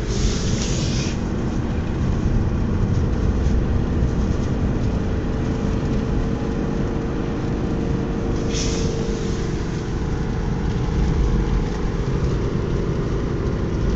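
A car driving: engine and tyre rumble inside the cabin, low and steady with a held engine tone. Two brief hisses come through, one at the start and one about eight and a half seconds in.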